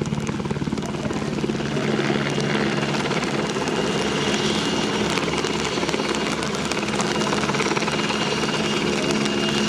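Czech Air Force search-and-rescue helicopter in flight: rapid, steady beat of the rotor blades with a thin high turbine whine over it, getting a little louder about two seconds in.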